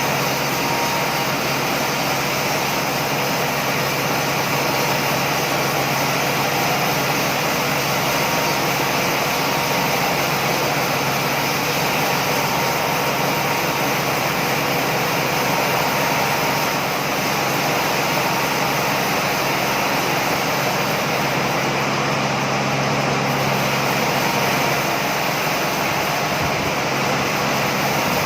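Sawmill machinery running steadily: a loud, even mechanical drone with a constant low hum underneath.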